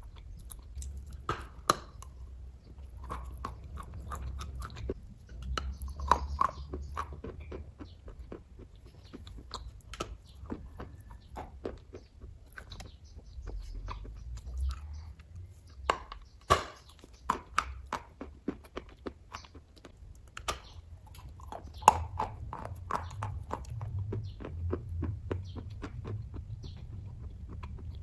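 Close-up mouth sounds of someone biting and chewing soft kaju katli cashew fudge: irregular wet clicks and smacks of chewing.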